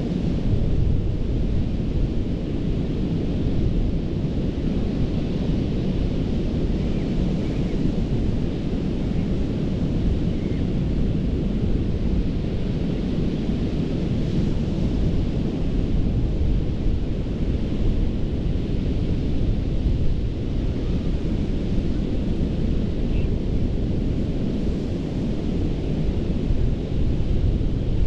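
Gulf of Mexico surf on a sandy beach: a steady, rumbling wash of waves, with wind buffeting the microphone.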